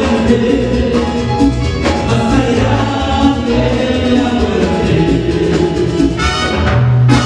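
Live band playing Latin-style Christian music, with several voices singing together over a steady beat.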